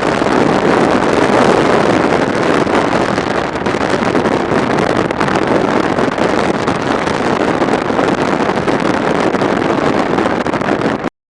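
Wind rushing over the camera microphone on a moving motorcycle, mixed with road and engine noise, steady and loud; it cuts off suddenly near the end.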